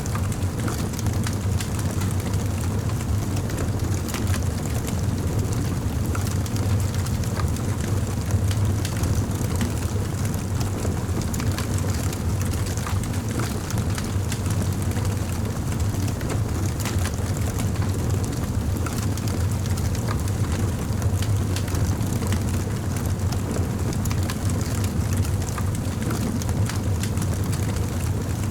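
Campfire burning steadily with a low roar and a constant scatter of small crackles and pops from the burning wood.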